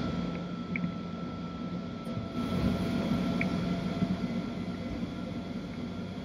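Electric rack-railway railcar running slowly into its terminus, heard from on board: a steady low rumble with a faint steady whine. There are a few brief high squeaks, the first two within the first second.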